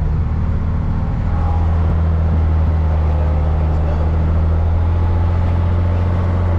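Off-road haul truck's diesel engine running steadily under way, heard from inside the cab as a deep, even drone that strengthens slightly about a second and a half in.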